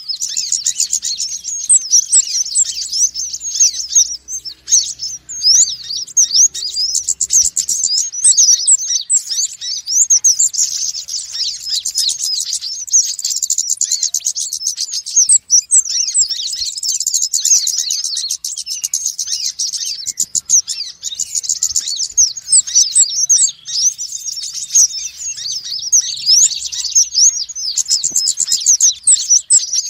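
Sunbirds of the kinds called konin and wulung in Indonesia, chattering noisily: rapid, thin, high-pitched chirps and twitters that overlap without a break.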